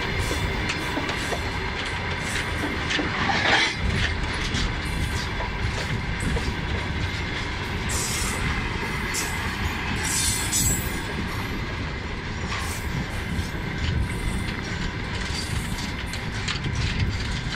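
Freight train wagons rolling past close by: a steady rumble of steel wheels on the rails with clicks as the wheels cross rail joints, and brief high-pitched wheel squeals, the strongest about three and a half seconds in and again around eight and ten seconds.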